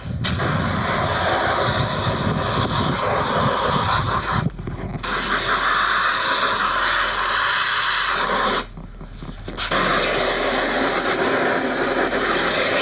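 Garden hose spraying water onto the kayak to rinse it, a steady hiss of spray that stops briefly twice.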